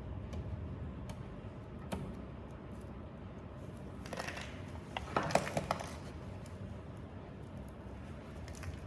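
Hands working on a belt sander's parts: a single click about two seconds in, then a short spell of scraping and small clicks between about four and six seconds, over a low steady background hum.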